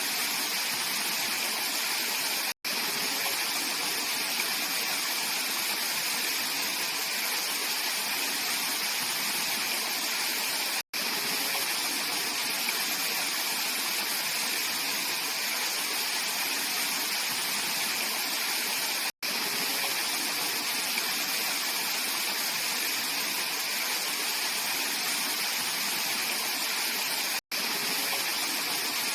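Mountain valley stream flowing: a steady, even rush of water, broken by a very short silent gap about every eight seconds.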